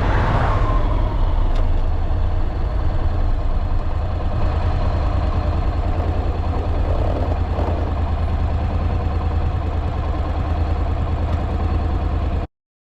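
Motorcycle riding along the road: steady engine and wind noise on the microphone, with most of the weight in a low rumble. It cuts off suddenly near the end.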